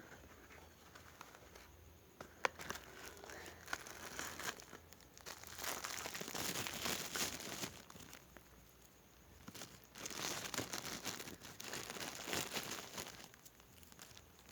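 Crinkling and rustling of packaging being handled, in two longer bouts, with a sharp click early on.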